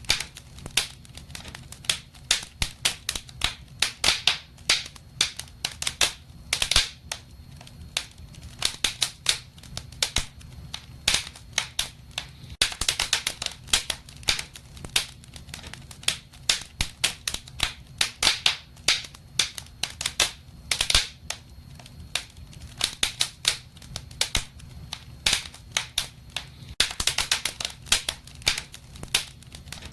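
Wood fire in a fireplace crackling, with frequent irregular sharp pops, some in quick clusters, over a steady low rumble.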